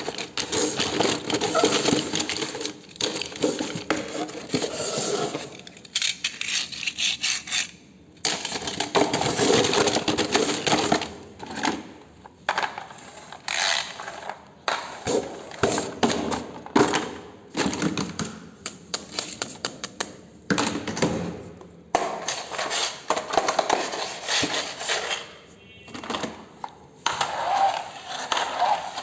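Hard plastic toy vehicles clattering and rattling as they are handled and knocked together, in irregular runs of clicks and knocks with short pauses.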